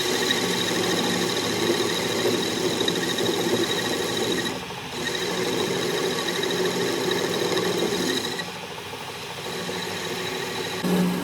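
A power tool working metal: a steady high whine with a rough rasping layer that stops briefly about four and a half seconds in and eases off again about eight seconds in.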